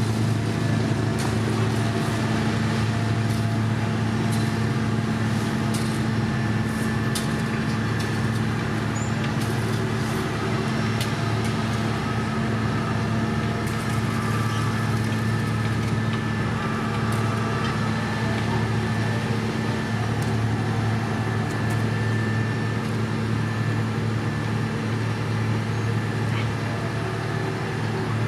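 Heavy diesel road-construction machinery running at a steady engine speed, a constant low drone with scattered light clicks and knocks.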